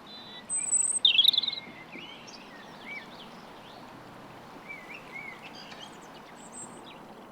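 Garden songbirds calling. The loudest is a quick burst of high, rapid notes about a second in, followed by scattered softer chirps and short whistles. A steady background hiss runs beneath them.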